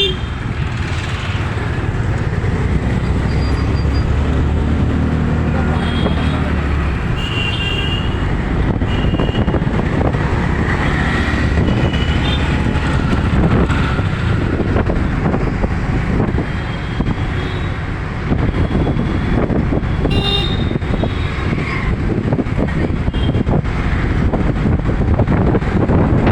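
City road traffic: a continuous din of engines and tyres, with a low engine hum early on and short high horn beeps scattered through.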